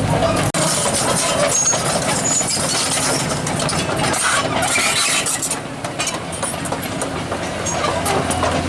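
Heavy truck engine idling steadily, with busy mixed noise around it; the low engine hum thins out about half a second in and comes back near the end.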